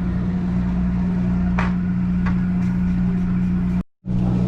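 Boat engine idling with a steady low drone. The sound cuts out briefly near the end.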